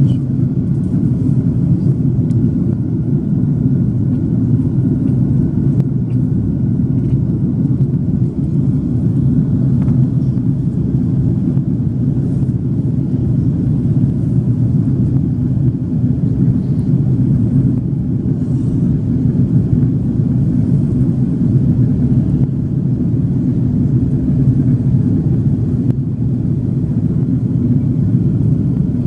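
Steady low cabin rumble of a Swiss Airbus A330-300 airliner, heard from a passenger seat, with no change in pitch or level.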